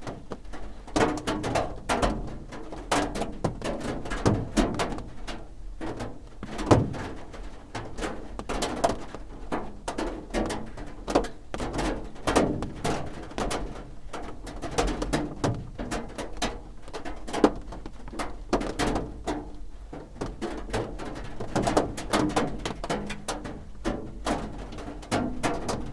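Raindrops drumming on a roof: a dense, irregular patter of knocks, with a few single drops landing louder than the rest.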